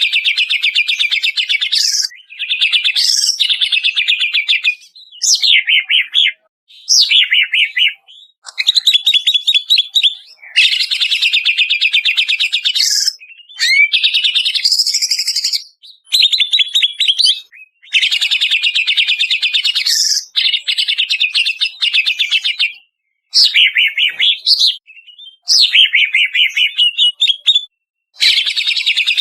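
Cucak ijo (greater green leafbird) singing in phrases of one to three seconds separated by brief pauses: rapid high trills and chattering runs, with a few sliding whistled notes.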